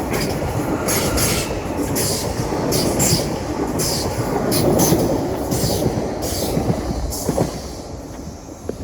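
Greater Anglia Class 745 electric multiple unit running through the station at speed without stopping: a steady rush of train noise with repeated sharp high clicks, dying away near the end as the train clears.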